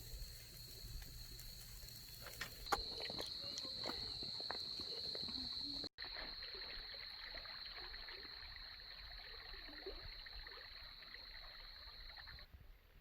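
Crickets trilling steadily in a high continuous chorus, with a few soft clicks and knocks about two to three seconds in.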